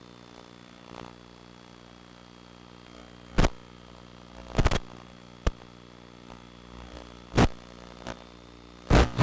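A steady low hum with five sharp, loud knocks or bumps, the second a quick double.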